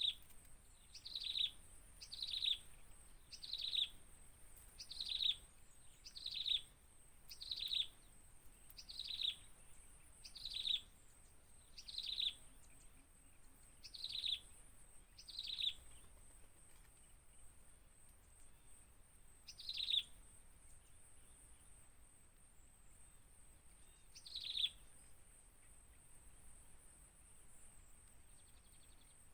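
A bird repeating a short, downward-sliding call about once a second, a dozen or so times, then twice more with longer gaps between them. A faint steady high tone runs underneath.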